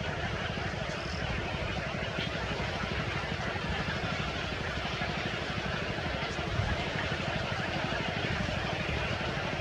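A small engine running steadily, with fast, even firing pulses.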